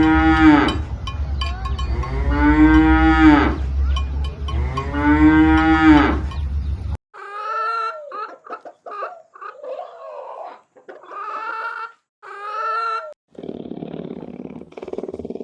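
A cow mooing three times, each moo long and drawn out, over a low steady hum. After about seven seconds a chicken gives a run of short calls, and near the end a lion's rough, low roar begins.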